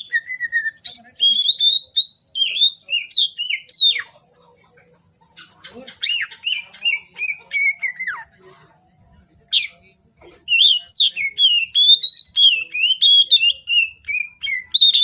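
Oriental magpie-robin (kacer) singing fast runs of varied whistled and chattering notes. It breaks off briefly a few seconds in and again around two-thirds of the way through, then resumes with dense phrases.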